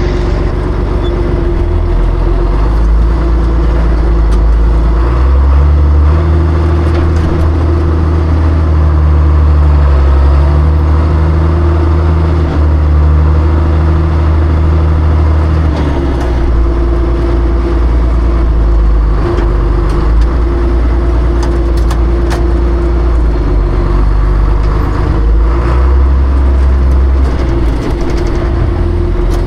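John Deere tractor engine running steadily. It works harder from a few seconds in until about halfway, then eases back. A steady higher whine runs above the engine note throughout.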